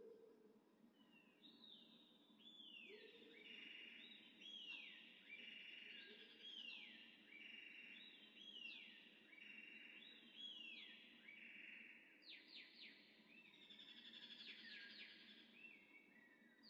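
Faint birdsong: many overlapping chirping calls, each sweeping down in pitch, repeating over and over, with quick rattling trills from about twelve seconds in.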